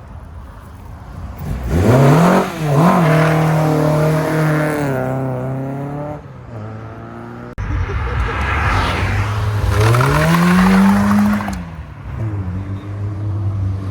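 Car engines accelerating away: one revs up with its pitch rising about two seconds in, then holds steady. After an abrupt change a little past halfway, another rev climbs, peaks and falls back.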